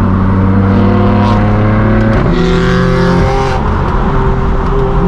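Straight-piped BMW M4 F82's twin-turbo inline-six exhaust pulling under acceleration: the pitch climbs, drops sharply at an upshift about two seconds in, then climbs again.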